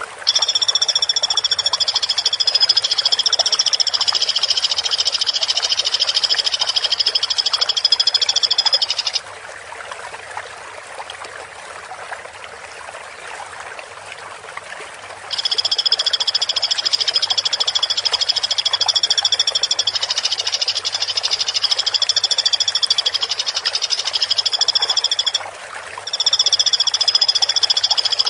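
Pelatuk (woodpecker) giving a dense, high-pitched continuous trill. It runs for about nine seconds, stops for about six, runs again for about ten seconds, breaks briefly, and starts once more near the end.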